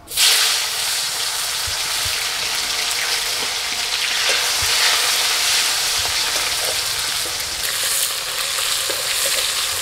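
Sliced tomatoes sizzling in hot mustard oil in a steel karahi, being stirred with a metal spatula. The sizzle starts suddenly as they go in and carries on steadily.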